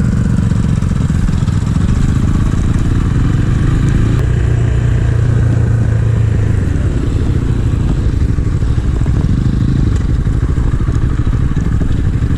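Small 250 cc motorcycle engine running steadily under way, its pitch rising and falling a little with the throttle, loudest a few seconds in.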